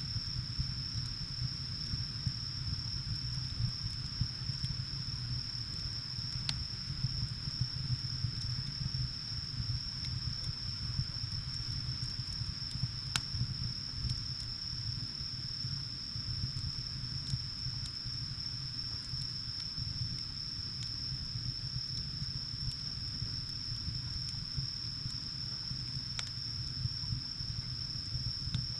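Wood fire burning with a low, steady rumble and a few sharp crackles and pops. A steady high-pitched tone runs throughout.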